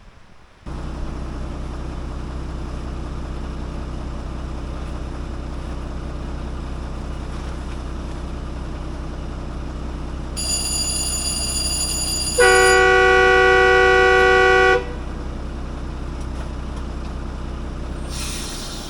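Hokuriku Juki 5-ton diesel locomotive of a forest-railway trolley train running steadily. About twelve seconds in it sounds its horn once, a loud note held for about two and a half seconds. A high whine starts shortly before it.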